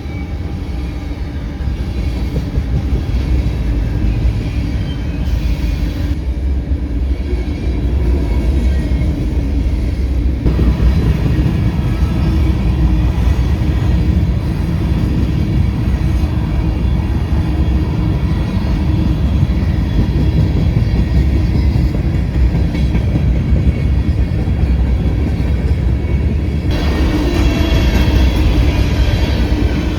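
BNSF grain train's covered hopper cars rolling past at speed: a loud, steady, heavy rumble of steel wheels on rail.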